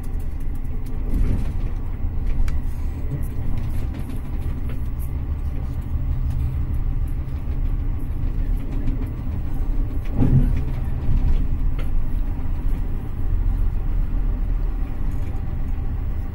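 Intercity passenger train running along the track, heard from inside the carriage: a steady low rumble of wheels on rails, swelling briefly louder about a second in and again about ten seconds in.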